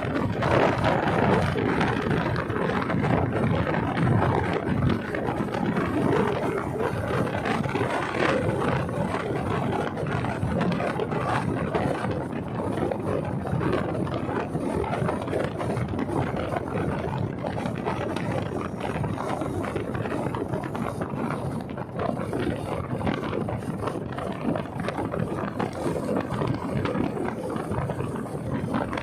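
Steady rush of wind and road noise from a moving motorcycle, with no clear engine note or other distinct event.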